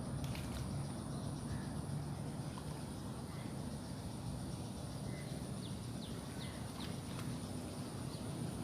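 Outdoor ambience at a fishing spot: a steady low rumble of wind or distant traffic, a thin continuous high insect-like whine, and a few faint short chirps from small birds a little past the middle.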